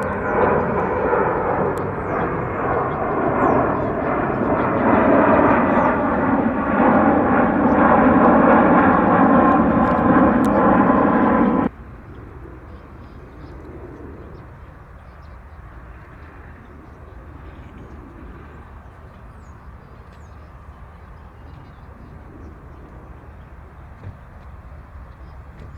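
Jet airliner engines at takeoff power: a loud, steady rush with several held whining tones, swelling slightly, then cut off abruptly about twelve seconds in, leaving only a faint low background.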